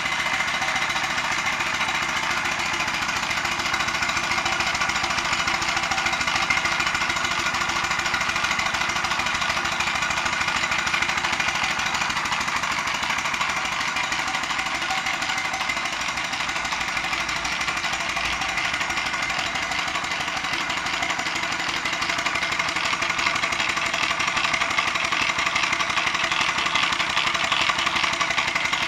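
Live steam traction engine running, with a rapid, even beat that holds steady throughout.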